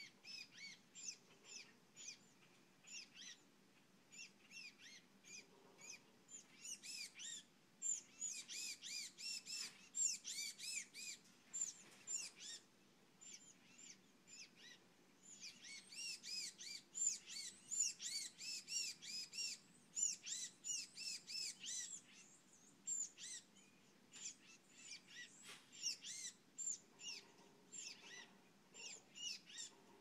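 Many birds chirping in short, high, rapid notes, growing dense and busy twice: from about seven to twelve seconds in and again from about fifteen to twenty-two seconds in.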